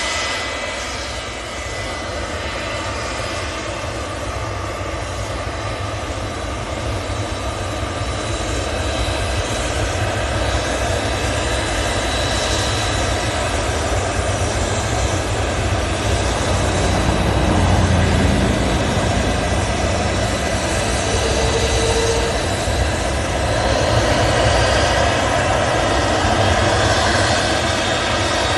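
Gulfstream business jet's turbofan engines running during takeoff: a steady roar with a thin high whine, growing gradually louder.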